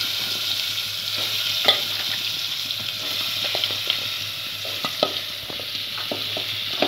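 Hot oil with spices sizzling steadily in a pressure cooker as chunks of bottle gourd, potato and onion are tipped in from a steel plate, with a few sharp knocks and clatters as the pieces and the plate hit the pot.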